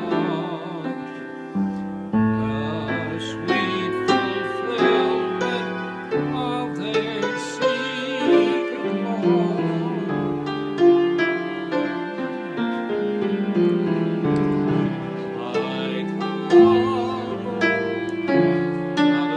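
A tune played on a keyboard instrument, with held, overlapping notes and chords changing every second or so, some notes wavering in pitch.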